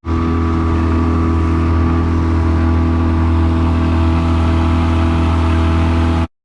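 A boat's engine running steadily at constant speed, with an even, unchanging hum, starting and stopping abruptly.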